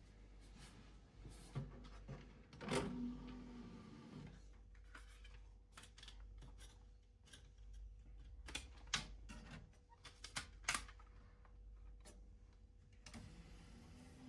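Faint scattered light clicks and knocks, as of small objects being handled, over a low steady hum.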